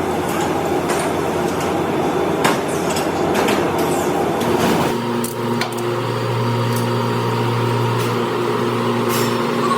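Workshop machinery: noisy metal clatter with scattered sharp knocks, then about five seconds in a steady machine hum takes over.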